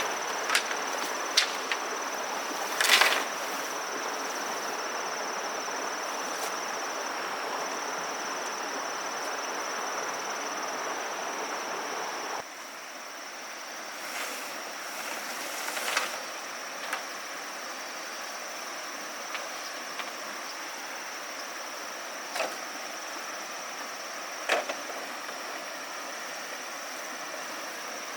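Steady high-pitched insect drone over outdoor background noise, with scattered clicks and knocks. The background noise drops suddenly about halfway through.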